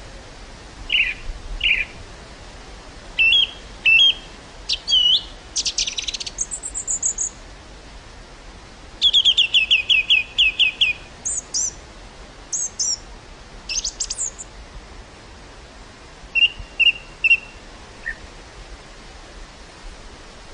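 Birds singing and calling over a steady rush of wind through a field of grass and wildflowers: scattered short chirps, a quick run of about ten notes about nine seconds in, and a few high thin notes.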